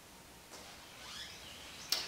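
Faint bird chirps in the background, with a short sharp click just before the end.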